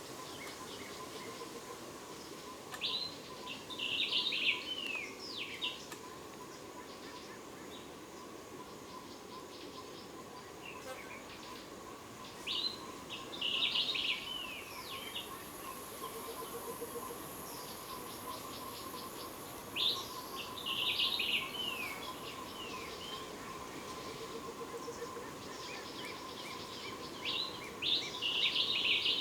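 A bird repeats the same short song phrase four times, about every seven or eight seconds, over a steady insect drone. A high-pitched insect buzz joins for several seconds in the middle.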